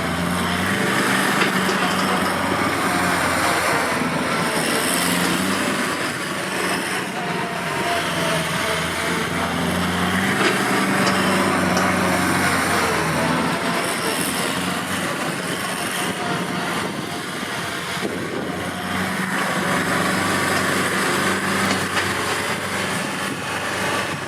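Kubota L5018SP tractor's diesel engine running hard, its note shifting up and down every few seconds.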